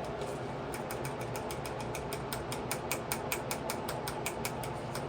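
A rapid run of light mechanical clicks, about five or six a second, starting a little under a second in, over a faint steady hum.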